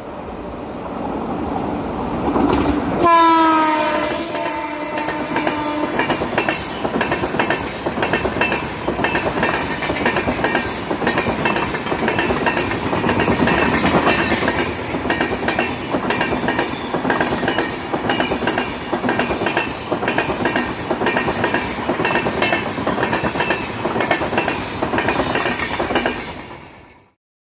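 WAP7 electric locomotive sounds its horn as it passes, the horn's pitch dropping as it goes by. The train's coaches then rush past with rapid, continuous wheel clatter over the rail joints, until the sound fades out near the end.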